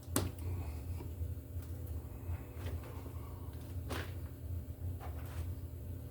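A few sharp clicks and light scrapes of hand work on electrical cable and tools, the loudest click just after the start and another about four seconds in, over a steady low hum.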